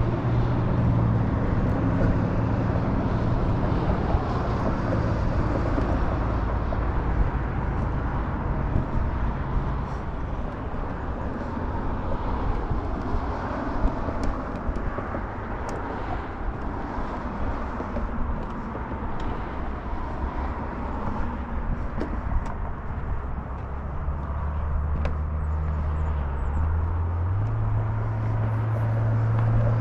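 A motor vehicle running steadily with road and engine noise. The low engine note steps up in pitch near the end.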